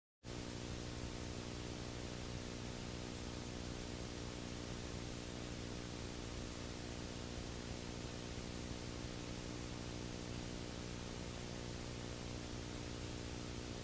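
Steady hiss with a low electrical hum made of many steady tones, the noise floor of an old recording with no other sound on it. It cuts in abruptly from dead silence right at the start.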